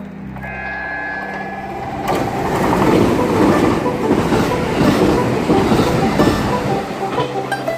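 Train running on the rails: a steady whine at first, then about two seconds in a loud rush of wheel and running noise that swells and holds.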